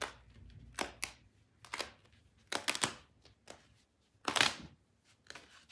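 Squeaky parquet floor giving out irregular sharp clicks and crackles, several in quick clusters: the creak of loose parquet boards.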